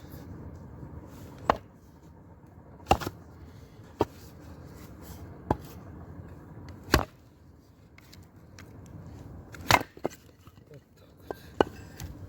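Chopping into a small wooden log to split it for a candle fire (Swedish torch): about eight sharp, separate blows, some in quick pairs, a second or two apart.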